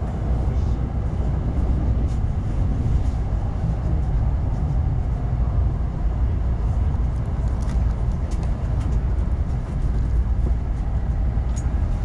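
Steady low running rumble of a West Kyushu Shinkansen N700S train at speed on a viaduct, heard inside the passenger cabin, with a few faint ticks in the second half.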